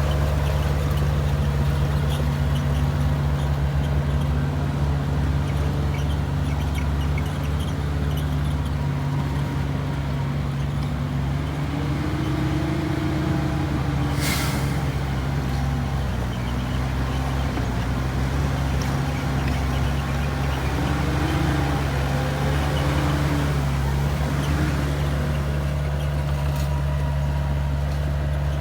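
Komatsu bulldozer's diesel engine working under load while pushing soil, its pitch rising and falling with the load. A short, sharp hiss comes about halfway through.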